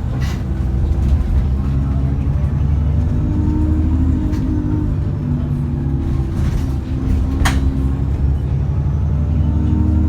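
Cummins ISBe 6.7-litre diesel engine of an ADL Enviro400 double-decker bus running under way, with a faint high turbo whine that rises and falls. A few sharp knocks or rattles come through, the loudest about seven and a half seconds in.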